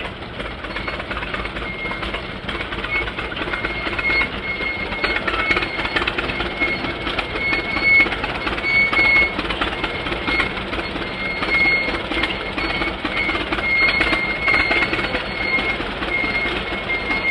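Antique farm machine running with a steady dense clatter and knocking. A short high squeak repeats well under a second apart.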